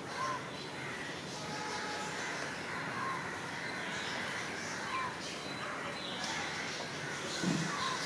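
Birds calling outdoors: four short arched calls spaced two to three seconds apart over a background of busy chirping. A brief low thud sounds near the end.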